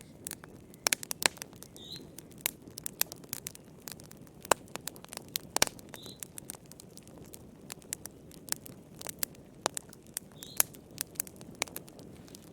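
Wood fire crackling in a fireplace: irregular sharp pops and snaps over a low steady rush, with a faint short high note recurring about every four seconds.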